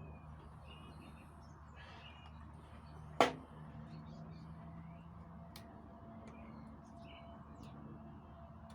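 Birds chirping intermittently over a faint steady low hum, with one sharp click about three seconds in.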